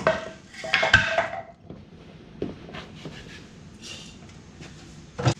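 Metal objects being handled and set down: a knock, a burst of clattering with a brief metallic ring about a second in, scattered clicks, and another sharp knock near the end.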